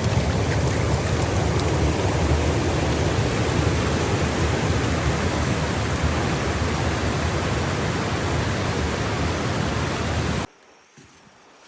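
Loud, steady rush of water, like a waterfall or creek rapids close by, that cuts off suddenly about ten and a half seconds in.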